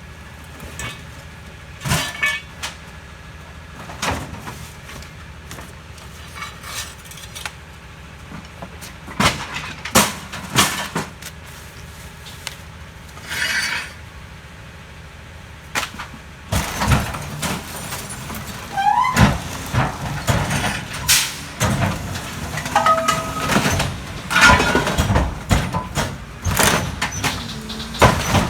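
Autocar ACX McNeilus rear-loader garbage truck idling, with scattered knocks and thuds of bulky waste going into the hopper. About halfway through, a louder, denser stretch of crunching and knocking begins, with a short rising squeal: the packer compacting the load.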